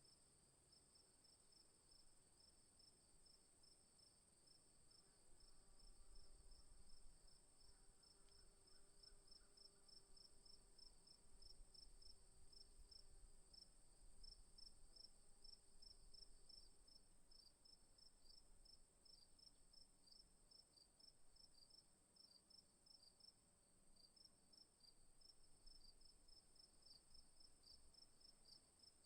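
Faint insect chorus: a steady high hiss with a quick run of repeated chirps beneath it.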